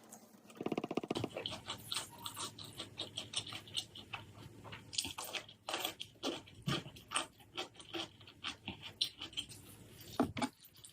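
Close-up chewing and crunching of food, a rapid run of crisp crunches and clicks.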